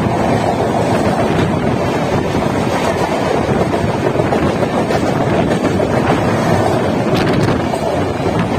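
Wind buffeting the microphone at the open door of a moving train, over the steady rush of another express train's coaches passing close by on the adjacent track.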